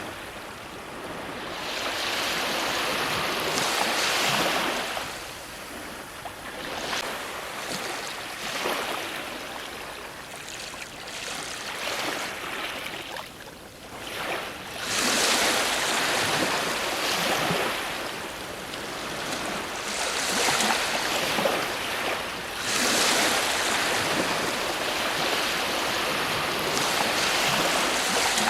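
Ocean waves breaking on a shore: a steady hiss of surf that swells and ebbs as each wave comes in, with a brief lull about halfway through before the loudest surges.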